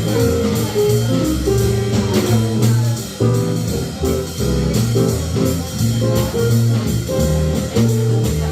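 Live jazz trio playing an instrumental passage: a guitar line over plucked bass notes.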